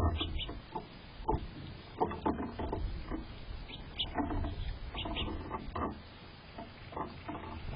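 Irregular soft taps, scratches and rustles close to the microphone, from birds foraging in the garden bed.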